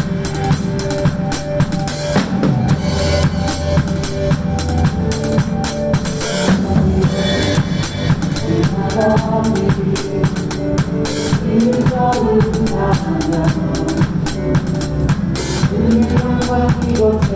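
Drum kit played along to a recorded worship song, with steady bass drum, snare and cymbal hits over the song's backing instruments.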